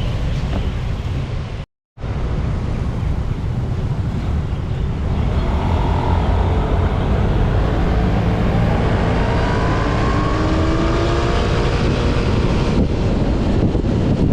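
Wind buffeting the microphone while riding along a road, a steady low rumble with traffic noise underneath. The sound cuts out for a moment about two seconds in, and in the second half faint rising engine whines come through.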